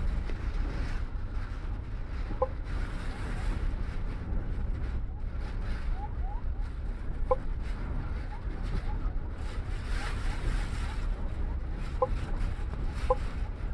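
Cabin noise inside a moving MAN double-decker bus: a steady low engine and road rumble, with a few short squeaks about every few seconds.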